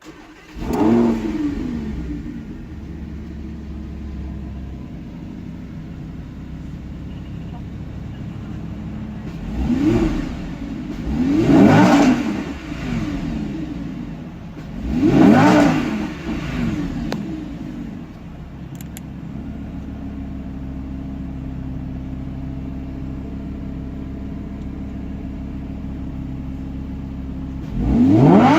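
Lamborghini Huracán LP610-4's naturally aspirated V10 starting up with a flare of revs and settling to a steady idle. It is blipped sharply three times, about ten, twelve and fifteen seconds in, then idles until another rev near the end.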